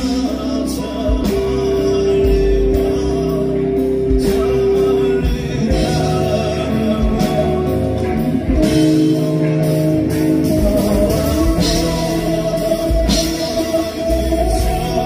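Live band music with long held sung notes over drums.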